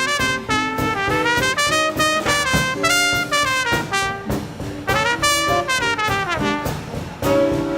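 Swing combo playing an instrumental passage, with horns (trumpet and trombone) playing quick runs of notes over the drums and bass.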